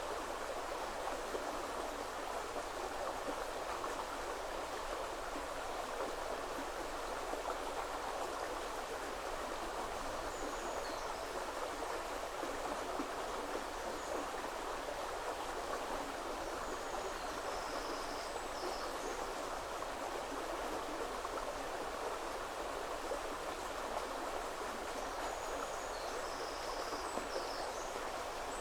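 Woodland river flowing steadily, a continuous rush of water. Faint high chirps of a small bird come in about ten seconds in and again near the end.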